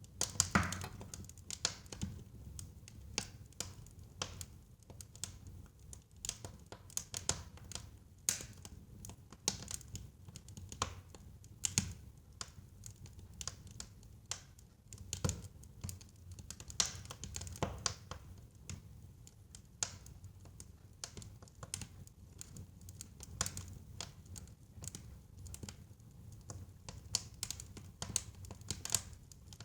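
Wood fire burning in a fireplace: irregular sharp crackles and pops, a few louder ones standing out, over a low steady rumble of the flames.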